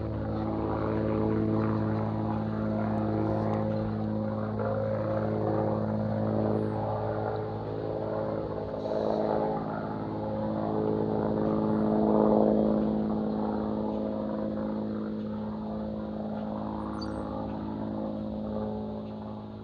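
Aircraft engine droning steadily at an even pitch, swelling a little in loudness near the middle, with a few faint bird chirps.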